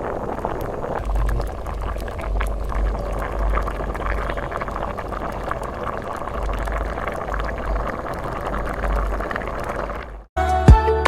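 Food cooking in a pot: a steady bubbling hiss with many small crackles, which cuts off suddenly near the end.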